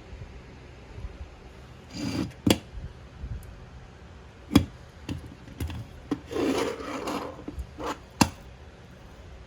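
Hard objects being handled: a few sharp knocks and clatters with rubbing and scraping between them, about three loud knocks in all.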